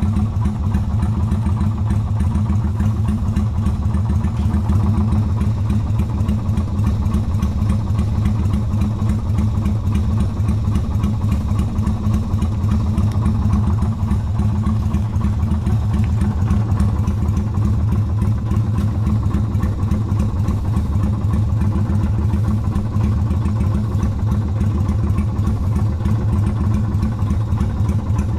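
Yamaha Virago 250's air-cooled V-twin engine running at steady revs, with no revving up or down.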